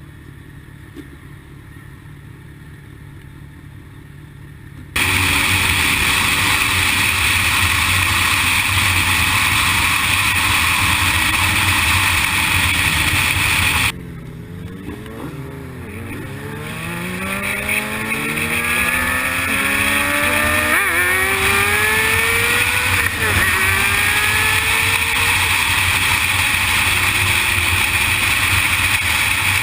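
Sportbike riding: quiet at first, then suddenly loud wind rush and engine noise. Partway through, the engine pitch climbs and drops back in steps as the bike accelerates up through the gears.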